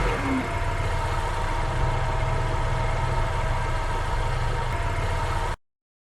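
An engine idling steadily with a low, even hum, cutting off abruptly about five and a half seconds in.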